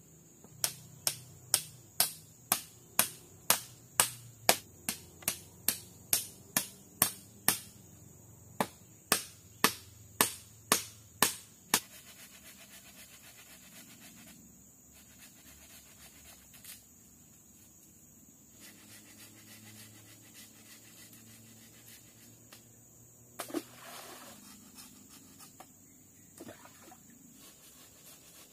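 A run of about twenty sharp, evenly spaced strikes, roughly two a second, with a short pause partway through, ending about twelve seconds in; one more single knock comes near the end.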